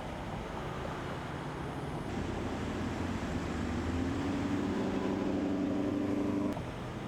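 Highway traffic noise; from about two seconds in, a passing vehicle's engine hum rises in pitch and grows louder, then cuts off abruptly near the end.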